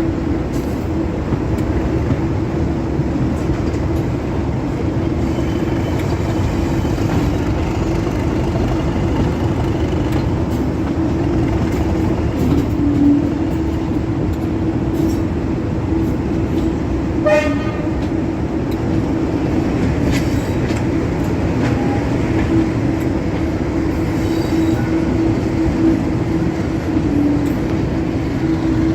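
Diesel train running steadily, its engine holding a constant drone, with one short horn toot about two-thirds of the way through.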